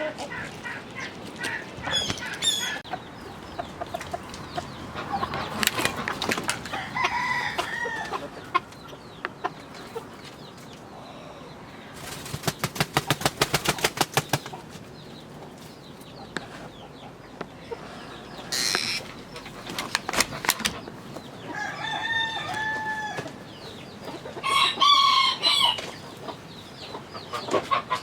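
Domestic chickens clucking and calling, with several louder pitched calls, and a burst of rapid wing beats near the middle.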